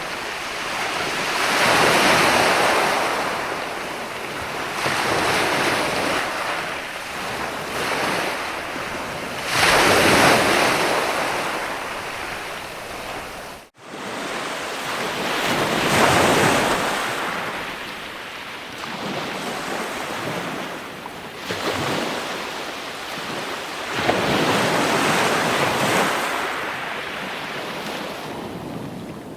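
Ocean surf: waves washing in and breaking, the hiss swelling and fading every three to six seconds. The sound cuts out for a split second about halfway through.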